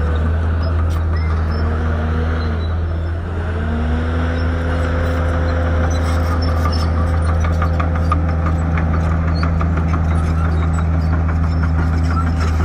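Shantui bulldozer's diesel engine running steadily, its whine sagging and climbing back a few seconds in, then holding. Rapid clicking runs through the second half.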